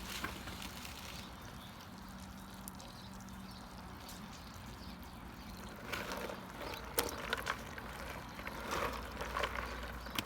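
Faint trickling of water around a container of hot melted wax cooling in a cold-water bath, over a low steady hum; a few clicks and knocks come in the later half.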